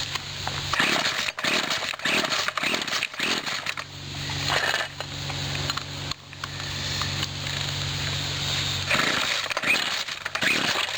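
The 24cc two-stroke engine of a 1997 Husqvarna string trimmer runs unevenly just after a carburetor rebuild. It sputters and surges in the first few seconds, settles to a steady idle in the middle, then surges again near the end.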